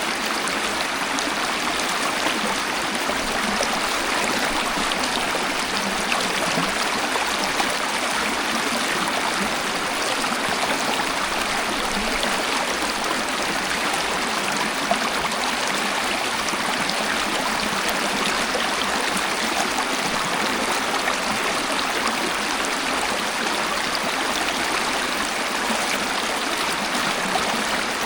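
Waterfall water splashing and rushing steadily: an even hiss with no deep rumble and no single splashes standing out.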